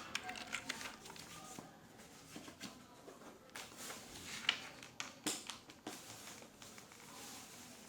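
Office background: scattered, irregular clicks and taps of computer keyboard keys and a mouse, a few sharper ones about halfway through.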